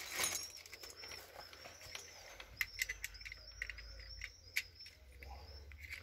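A bird singing a high, repeated warble, over the rustle of a plastic bag and a few sharp clicks as a new five-lever mortice lock is unwrapped and handled.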